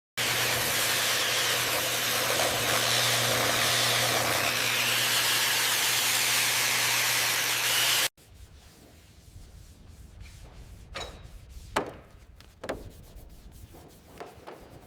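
Steady abrasive rubbing noise with a low hum underneath, which cuts off suddenly about eight seconds in. A few faint, short knocks follow.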